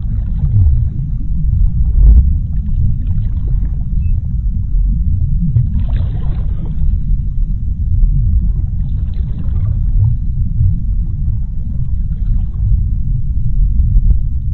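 Underwater sea ambience: a steady deep rumble, with a few fainter swells of higher hiss about six and nine seconds in.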